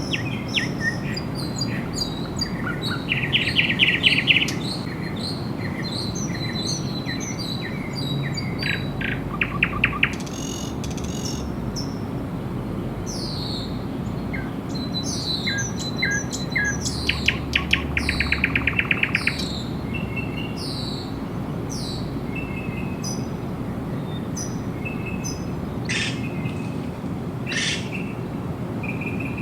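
Several songbirds calling and singing: many short high chirps, some falling in pitch, with rapid trills of quickly repeated notes three times, over a steady low background rush.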